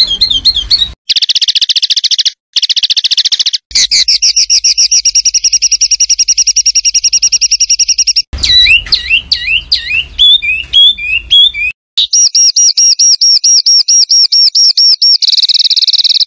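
Songbird tutor recording (masteran) spliced from several clips: long, very fast trills of repeated high notes, then a run of rising, swooping whistled notes, then another fast high trill, each stretch cut off abruptly.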